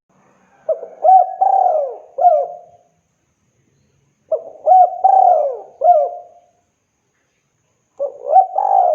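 Spotted dove (tekukur) cooing, a gacor bird calling for a female. It gives three repeated multi-note coo phrases about three and a half seconds apart, each with swooping notes, the last running on past the end.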